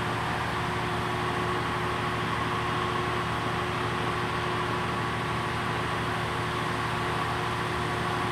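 Steady hum of a stationary train idling at the platform: a few held tones over an even drone, with no change in level.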